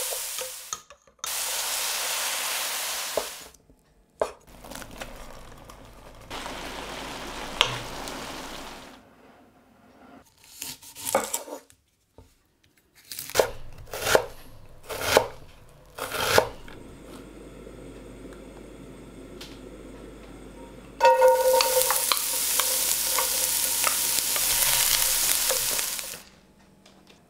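Sliced mushrooms and onion sizzling in a frying pan as a wooden spoon stirs them. Midway comes a series of sharp knife strikes chopping an onion on a wooden board. A loud hiss returns near the end.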